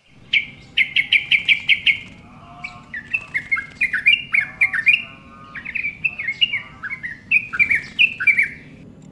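Yellow-vented bulbul (trucukan) singing loudly. It opens with a quick run of about seven repeated chirps, then gives a longer string of varied, falling notes.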